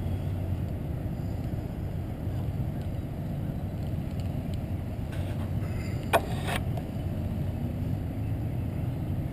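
Steady low wind and road rumble from riding a bicycle on a road, with one sharp click about six seconds in.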